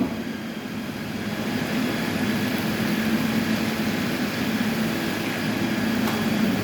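Heavy machinery running steadily, a constant low hum over a broad mechanical noise.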